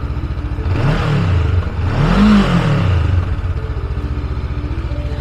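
Honda CB500F's parallel-twin engine idling, blipped twice with the throttle, the second rev higher than the first, then settling back to idle.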